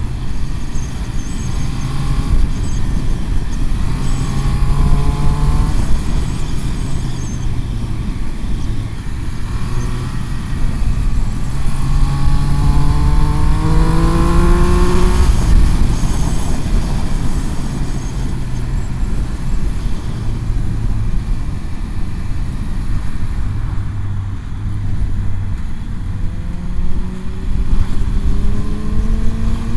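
Motorcycle engine pulling hard and changing gear, its pitch climbing then dropping back twice, under heavy wind rush on the microphone at road speed.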